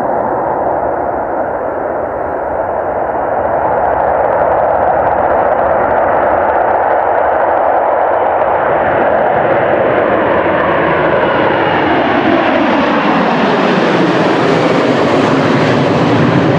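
Boeing 747's four jet engines at takeoff power as the jumbo passes. The roar grows brighter and hissier toward the last few seconds, with the engine whine falling in pitch as it goes by.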